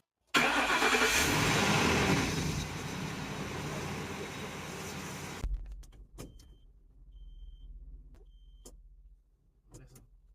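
The Ford E250 van's engine starts running suddenly, loudest for the first two seconds, then lower until it stops abruptly about five and a half seconds in. A few clicks follow, then three short high chime beeps about a second apart.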